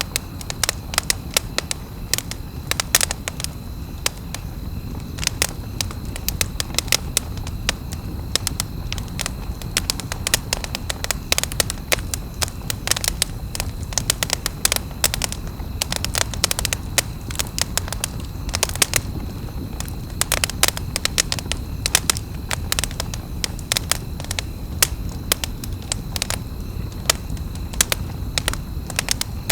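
Campfire crackling: frequent, irregular sharp pops and snaps of burning wood over a low, steady rumble.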